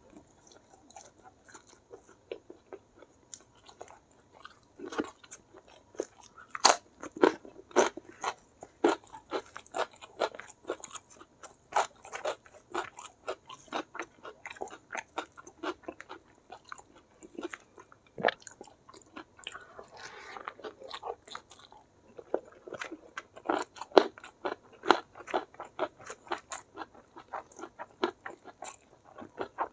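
Close-miked chewing and crunching of spicy fried chicken with rice: a dense run of sharp crunches and wet mouth clicks as the crispy coated chicken is bitten and chewed.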